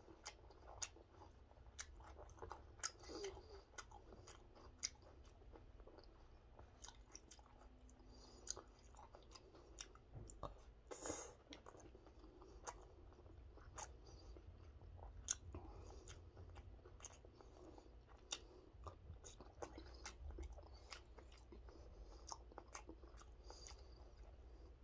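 A person chewing food faintly with closed mouth, with many small wet clicks. A brief, louder noise comes about eleven seconds in.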